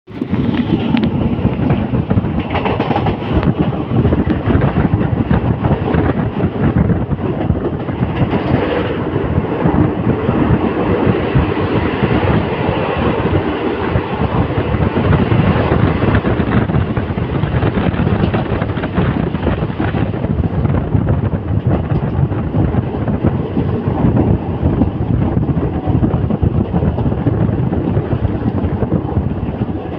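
Passenger train running at speed, heard from aboard: a steady rumble and rattle of the carriage and its wheels on the track.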